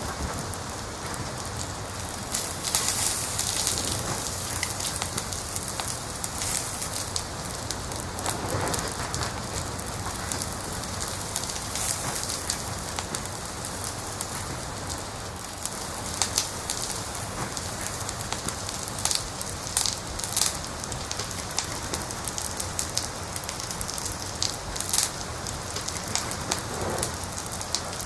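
Wood fire crackling, with irregular sharp pops and snaps over a steady hiss. The pops come in small clusters, the loudest about 3 s in, around 16 to 20 s and about 25 s in.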